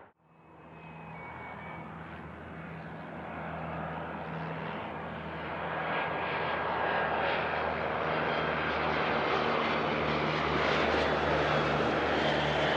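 Aircraft engines growing gradually louder as a plane approaches, with steady low engine tones and a high whine that comes in near the end.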